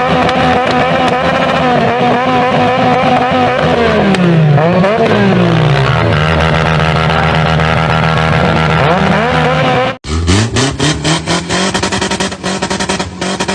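A vehicle engine held at high revs, with its pitch dropping and climbing again a few seconds in. After an abrupt cut about ten seconds in, another engine revs up and stutters rapidly against its rev limiter.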